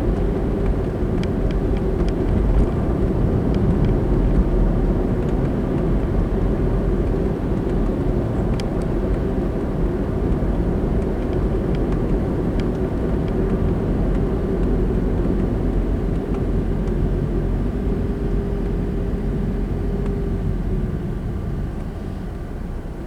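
Car driving on a town road: steady tyre and engine noise with a faint steady hum, getting quieter near the end.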